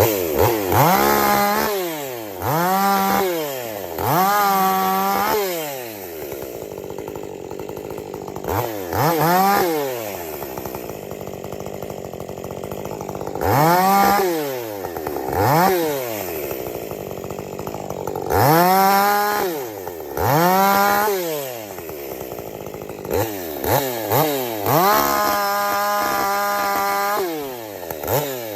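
50 cc-class two-stroke chainsaw idling and being blipped to full throttle again and again, each rev rising sharply and dropping back to idle. Near the end it is held wide open for a couple of seconds.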